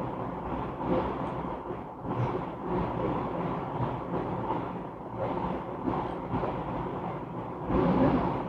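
Steady background rumble and noise, with no distinct events.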